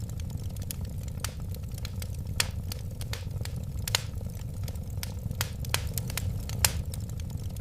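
Wood fire crackling: irregular sharp pops and snaps, several a second, over a steady low rumble of flames.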